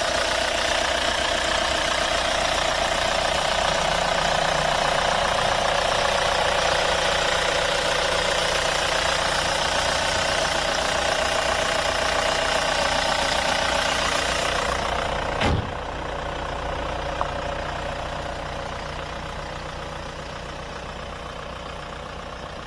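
Opel Omega 2.0 DTI four-cylinder turbodiesel idling with a steady diesel clatter. About two-thirds through there is a single thud, after which the engine sounds duller and quieter, fading slowly.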